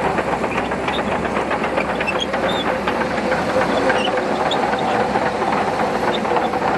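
Shantui crawler bulldozer working, its diesel engine running steadily under a fast, continuous rattle and clank of the steel tracks.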